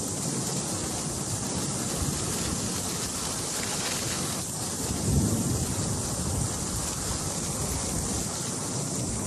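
Steady rushing noise of fast-flowing floodwater, with wind buffeting the microphone and a stronger low gust about five seconds in.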